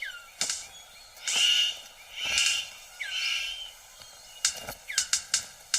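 Male superb bird of paradise displaying to a female: sharp clicks and snaps, three harsh buzzy calls, then a quickening run of sharp clicks near the end. Thin gliding whistles sound in between.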